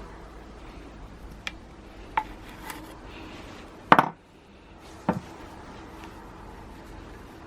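Scattered clinks and knocks of small tools and metal parts being handled during disassembly, the loudest a sharp knock about four seconds in and another about a second later.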